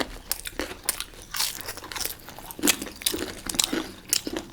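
Crunching as a crispy deep-fried momo is bitten and chewed: irregular sharp cracks of the fried wrapper, several a second.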